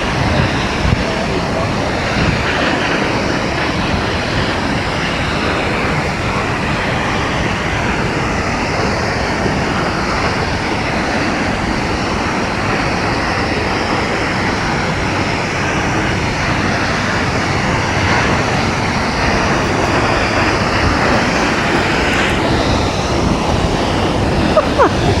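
Steady rush of falling water from Multnomah Falls, a tall waterfall, unbroken throughout.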